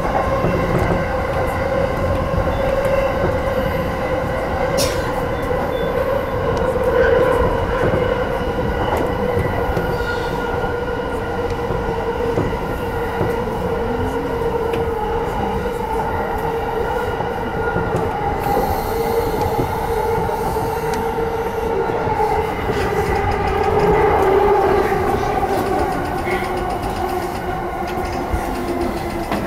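E235-series Yamanote Line electric train running, heard from the front of the train: a steady rumble of wheels on rail under a steady whine from the traction motors. Near the end the whine drops slightly in pitch as the train slows into the station.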